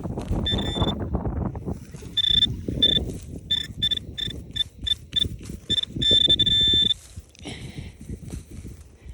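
Handheld metal detector pinpointer beeping on a target in a dug soil plug: single beeps that come faster and faster, then run into one continuous tone as the probe closes in, over the scuffing of dirt being handled.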